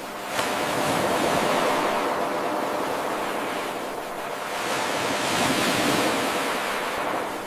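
Ocean waves washing ashore: a steady surf hiss that swells and ebbs, dipping about four seconds in and building again. About half a second in the sound jumps up suddenly where the 8-second wave recording restarts its loop.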